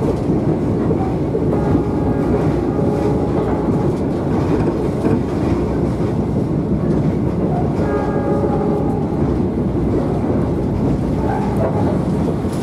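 Steady running noise inside a moving passenger train coach: the rumble of the wheels on the track, heard through the carriage at speed.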